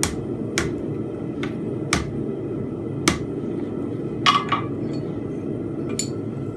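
Blacksmith's hammer striking hot steel bar on an anvil, about seven irregularly spaced blows with a metallic ring, while forging fence pegs. A steady low rushing noise runs underneath.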